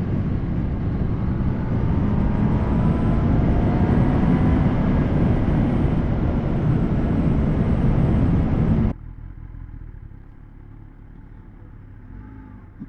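Kawasaki ZX10R inline-four superbike being ridden, heard as heavy wind rush over the camera with the engine's note gliding faintly underneath. About nine seconds in the sound cuts abruptly to a much quieter low rumble.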